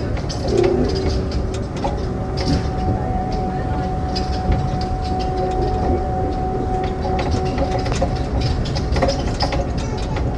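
Passenger train running: a steady low rumble with rail noise, and a steady whine from about two seconds in until about eight seconds.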